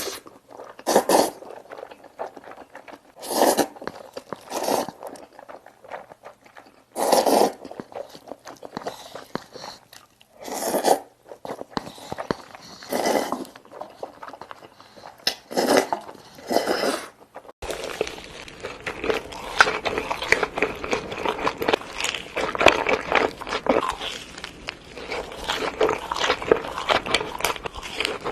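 Close-miked eating sounds: separate crunchy bites every second or two. A little past halfway the sound changes abruptly to dense, continuous crunching and chewing.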